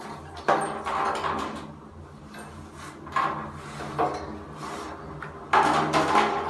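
Scraping, rubbing and knocking as a birdcage is handled and cleaned, in several separate bursts, the loudest near the end.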